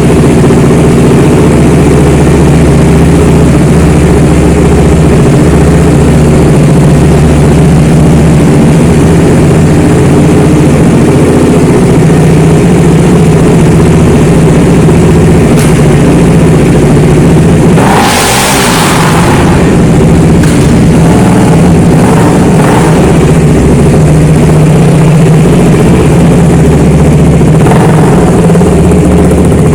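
Motorcycle engine running steadily at idle. About eighteen seconds in, its pitch briefly drops and comes back up, with a short hiss.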